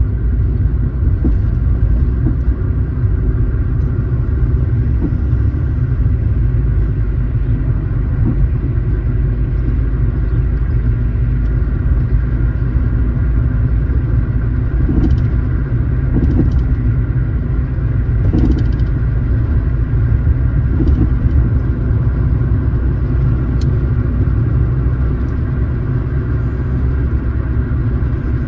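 A car driving at a steady pace, its engine and road noise making a continuous low rumble. A few brief louder noises stand out about halfway through.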